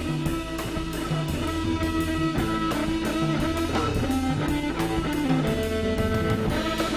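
Live rock band playing an instrumental passage: electric guitar over a repeating bass line and a steady drum beat.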